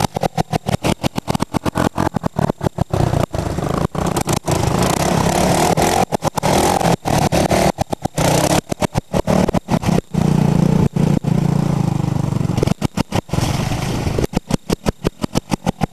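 Honda Big Red 250ES three-wheeler engine running and revving, louder for a stretch about ten seconds in. The sound is chopped by frequent brief dropouts.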